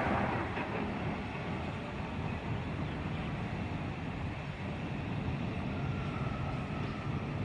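Steady low engine rumble with a faint background haze, typical of heavy machinery or traffic heard at a distance.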